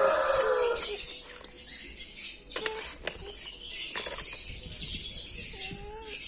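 A bird's long call trailing off about a second in, then scattered clicks and rustling, with a short rising-and-falling squeak near the end.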